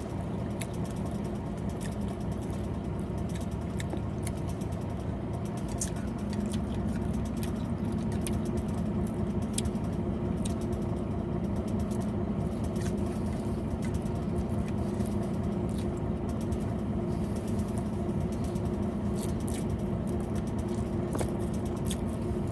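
Engine idling steadily with a constant hum, with scattered light clicks and ticks over it.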